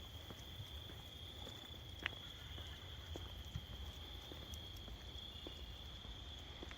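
Steady high-pitched chorus of crickets, with scattered soft footstep clicks and one sharper tick about two seconds in.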